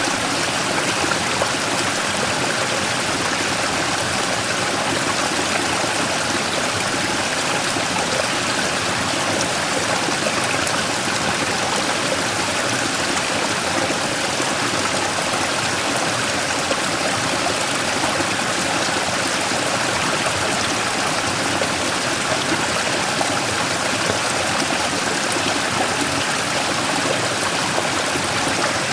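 Mountain stream pouring over a large rock as a small waterfall, a steady, unchanging splash of water.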